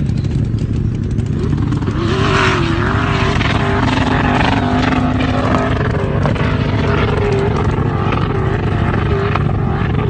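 Twin-turbo 6.0-litre LS V8 of a Nissan Patrol running loud and continuous, with a steady low rumble. The engine noise rises about two seconds in, and a wavering tone rides above the rumble from then on.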